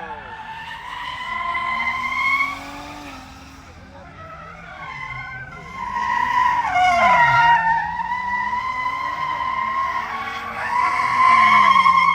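Car tyres squealing in a long screech as a car spins and slides in the pit, its engine revs rising and falling again and again underneath. The squeal swells loudest about two-thirds of the way in and again near the end.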